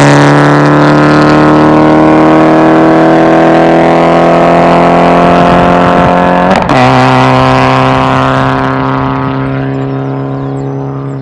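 Exhaust drone of a 2005 PT Cruiser's 2.4 L four-cylinder running through a catless straight pipe with a Cherry Bomb muffler. The engine holds a steady pitch under way, then about two-thirds through the note dips briefly and steps down in pitch, as with a gear change. It fades near the end.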